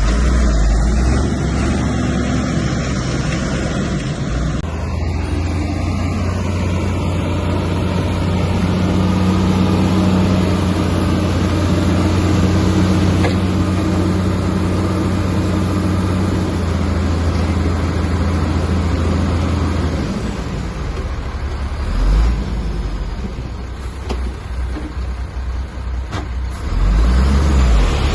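Komatsu bulldozer's diesel engine running under load: a steady engine drone through the middle, becoming a rougher, uneven low rumble toward the end.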